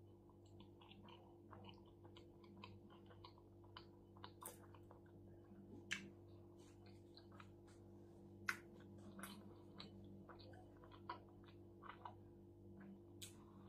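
Faint close-up chewing of a shawarma wrap: soft, irregular wet mouth clicks and smacks, with a few louder ones, over a steady low hum.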